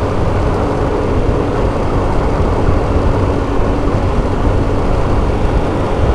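Steady wind rush on the microphone of a moving motorcycle, with the even drone of a Hyosung GT125R's small 125 cc V-twin engine cruising at a constant speed.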